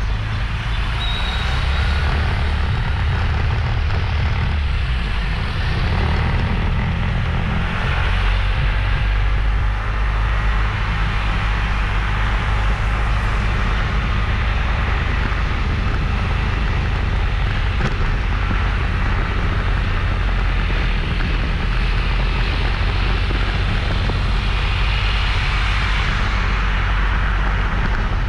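Motorbike under way at riding speed: a steady run of engine and road noise, with wind rumbling on the microphone.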